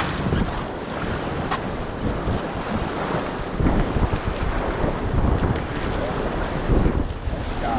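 River water rushing and splashing around a paddling whitewater raft, with heavy wind buffeting the microphone in gusts.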